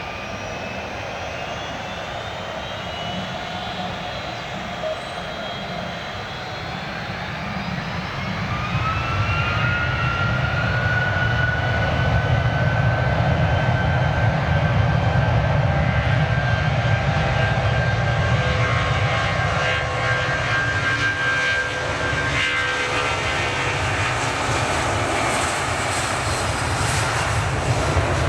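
Jet airliner engines running close by: a deep rumble with a high whine that glides up in pitch and grows louder about eight seconds in, then stays loud.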